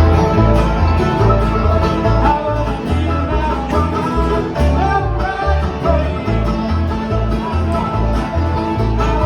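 Bluegrass band playing, with banjo and guitar picking over a steady, rhythmic bass line.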